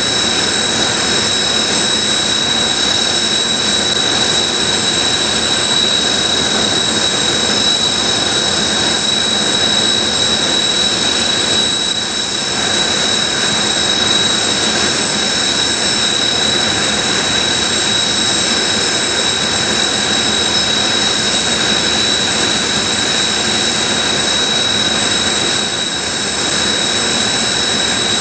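Kawasaki T-4 jet trainers' twin turbofan engines running at idle on the ramp: a steady, loud jet noise with a constant high whine.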